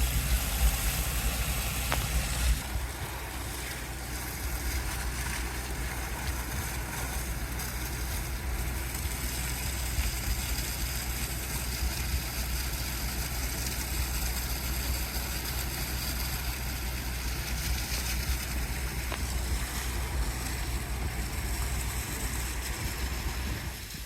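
Water truck's engine running steadily with a constant rushing hiss of high-pressure water spraying onto the ground, a little louder for the first couple of seconds.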